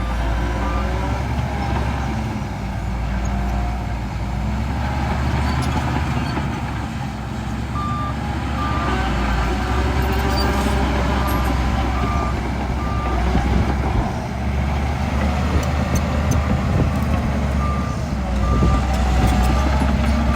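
Heavy diesel earthmoving machinery running steadily, with a reverse alarm beeping at an even pace, a little over one beep a second, in spells: briefly at the start, for several seconds in the middle and again near the end.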